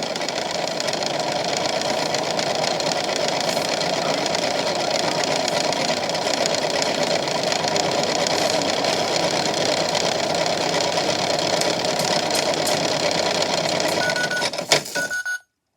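Small motor of a toy washing machine running steadily with magnets in its drum. Near the end come two short beeps and a sharp click, then it cuts off abruptly.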